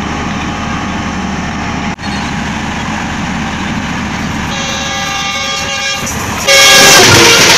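Steady low diesel rumble. From about halfway, the horn of the approaching Green Line Express's GE U20 locomotive sounds. Near the end the express reaches the camera at high speed with a sudden loud rush of wheel and wind noise, horn still sounding.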